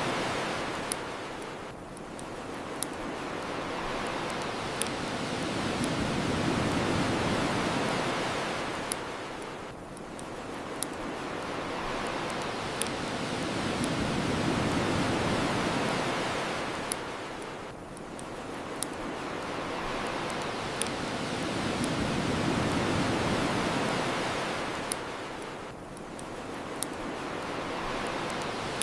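Ocean waves washing onto the shore, swelling and easing about every eight seconds, with occasional sharp pops from a crackling bonfire.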